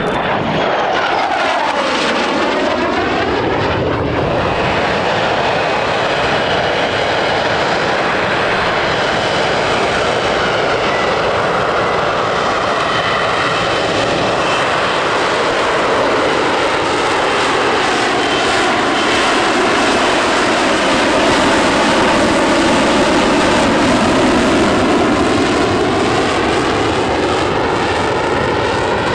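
Lockheed Martin F-35B Lightning II's jet engine running loud and steady as the jet flies past, with a sweeping, phasing tone as it passes and a slight swell about two-thirds of the way through.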